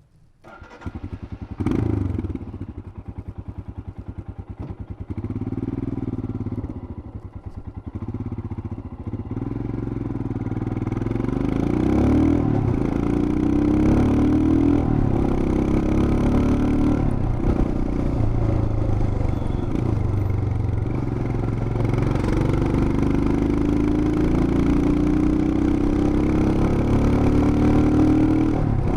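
Royal Enfield Himalayan BS6's 411 cc single-cylinder engine, heard through its exhaust. It comes alive about a second in and runs at an evenly pulsing idle, then pulls away, its pitch repeatedly rising and dropping back as it shifts up through the gears.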